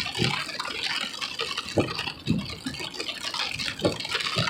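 Heavy rain beating on a car's windshield and roof, heard inside the moving car, a steady dense patter with scattered low thuds.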